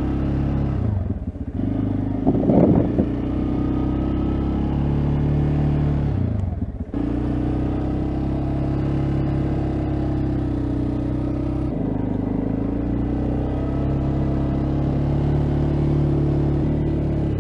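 A CFMoto ATV's engine runs steadily under load while plowing snow. Its note drops briefly about a second in and again about six seconds in, with a short loud clatter about two and a half seconds in.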